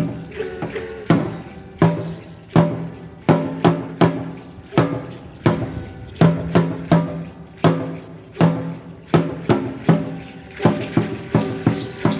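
Drumming for an Aztec Chichimeca dance: sharp, ringing drum strikes in a steady pulse, about one to two a second, becoming more rapid near the end.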